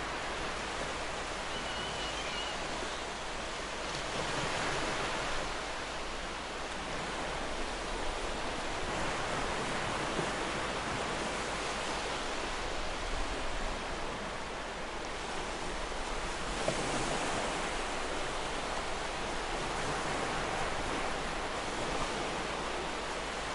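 Ocean surf: a continuous wash of breaking waves, swelling and easing every few seconds.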